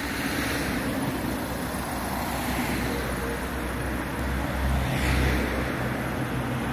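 Small car's engine running at low speed as the car creeps slowly forward on full steering lock into a parking bay, a steady low rumble that swells slightly about two-thirds of the way through.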